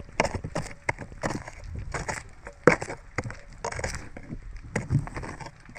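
A run of irregular sharp knocks and clicks, a few a second, with one louder knock near the middle.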